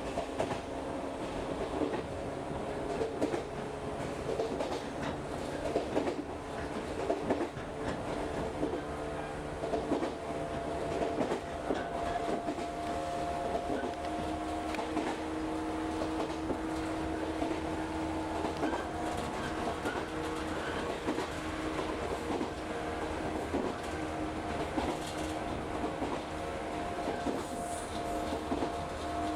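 Local electric train running along the line, heard from on board: a steady rolling rumble and hum, with frequent clicks of the wheels over the rail joints.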